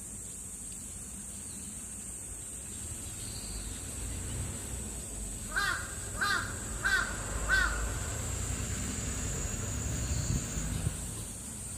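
A crow cawing four times in quick succession, over a steady high-pitched drone.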